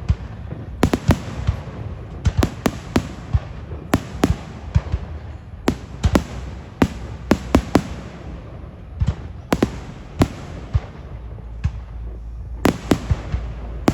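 Fireworks display: aerial shells bursting in quick irregular clusters of sharp bangs, several a second at times, each echoing briefly, over a steady low rumble.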